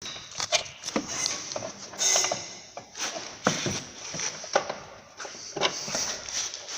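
Irregular knocks, clicks and scraping of tools on metal as the front upper control arm of a 2007 Audi A6 is pried and worked out of its mounting.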